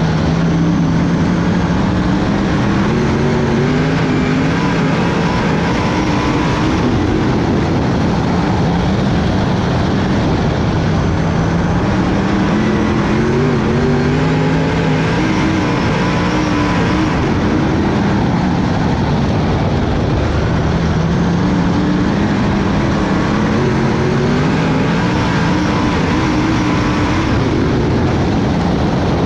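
Dirt-track race car engine noise. The engine note climbs for a few seconds, then drops back, and the cycle repeats about every ten seconds as the cars come around the oval.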